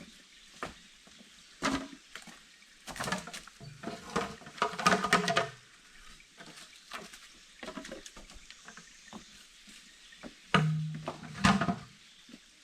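Irregular knocks, clatter and rustling from hands working with objects, a few of the knocks with a short hollow low ring.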